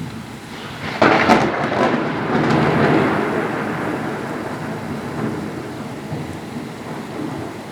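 A thunderclap in heavy rain: a sudden sharp crack about a second in, then a long rumble that slowly fades, over the steady hiss of rain.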